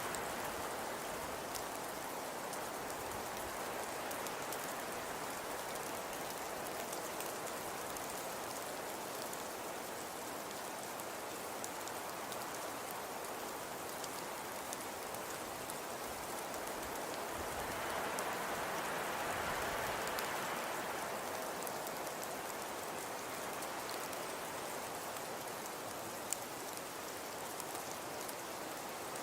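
Fireplace crackling steadily: an even hiss dotted with small pops, swelling a little about two-thirds of the way through, with one sharper pop near the end.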